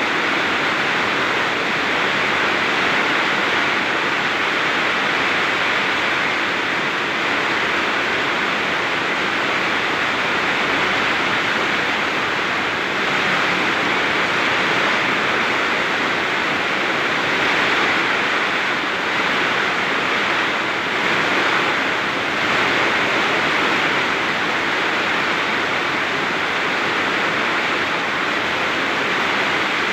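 Very heavy rain pouring down in a windstorm: a dense, steady hiss that swells slightly now and then.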